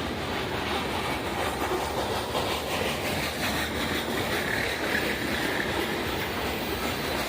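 A train rolling past, its wheels running steadily over the rails.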